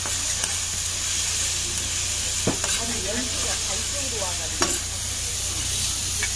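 Pork sizzling steadily on a hot iron griddle, with a couple of sharp clicks about halfway through.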